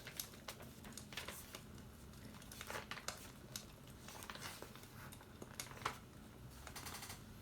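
Fireplace crackling: irregular sharp pops and crackles over a steady low rumble.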